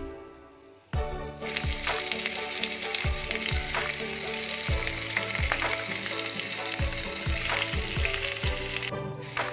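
Food frying in hot oil in a pan: a loud, steady sizzle that starts about a second in and cuts off suddenly near the end.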